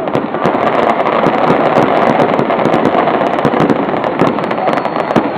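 Fireworks barrage: a dense, rapid, continuous crackle of many small bangs packed closely together, with no pause.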